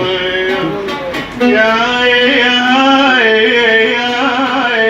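A male singer holding long, wavering notes in Arabic song. He breaks off briefly about a second in, then comes back louder.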